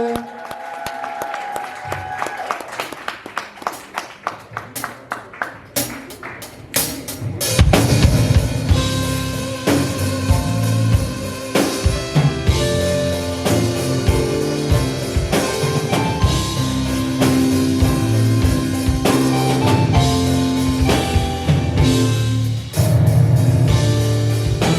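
Live gospel band starting a song: a run of evenly spaced drum strikes speeds up, then about seven seconds in the full band comes in with drum kit, bass and sustained chords.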